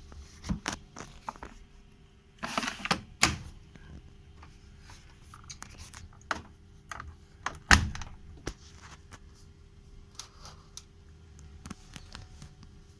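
Irregular clicks and knocks from a Bosch front-loading washing machine over a steady low hum. There is a cluster of knocks about two and a half seconds in and one sharp, loud knock near the middle.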